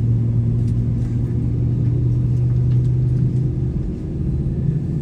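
Airbus A320-200 engine drone heard inside the passenger cabin: a steady low hum with one strong low tone, easing slightly about four seconds in.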